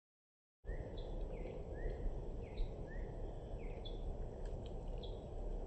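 A bird repeating a short phrase of chirps, a rising note followed by higher notes, about once a second, over a steady low outdoor rumble; the sound starts about half a second in.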